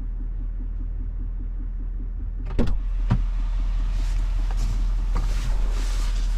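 Duramax diesel engine of a 2020 Silverado 3500 HD idling, heard from inside the cab as a steady low hum. About two and a half seconds in there are two sharp clicks, followed by a louder hiss of noise.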